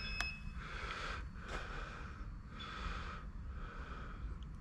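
An insulation tester's steady electronic beep cuts off about half a second in. It is followed by soft, repeated breathing close to the microphone and a couple of small clicks.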